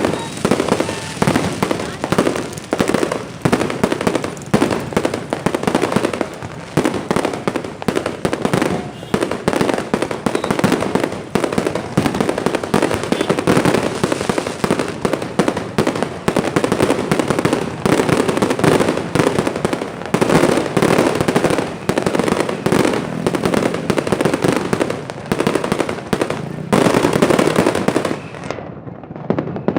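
Fireworks and firecrackers going off in rapid, continuous bangs and crackles, thinning briefly near the end.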